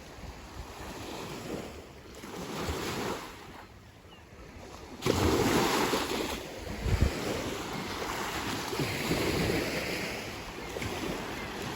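Ocean surf: waves washing in and receding, swelling and fading, with a sharp rise in level about five seconds in. Wind buffets the microphone with low thumps.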